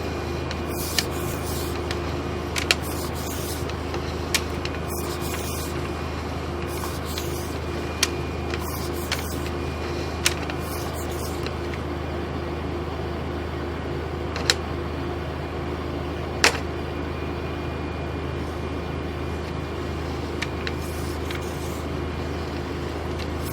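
An engine running steadily, a constant low hum with a steady tone above it. Scattered sharp clicks and ticks sound over it, the loudest about eight, ten, fourteen and sixteen seconds in.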